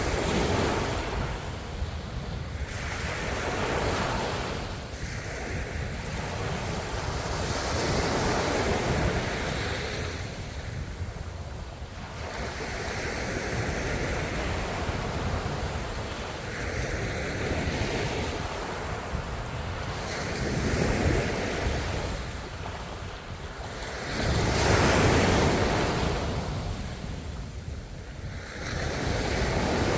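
Ocean waves breaking and washing up the shore in a steady cycle of swells every few seconds, with the biggest surge about three-quarters of the way through.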